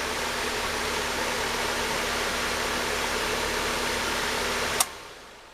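Outdoor air-conditioner condenser unit powered up briefly for a test, running with a steady whoosh of air and a faint electrical hum. A sharp click comes near the end as it shuts off, and the sound dies away.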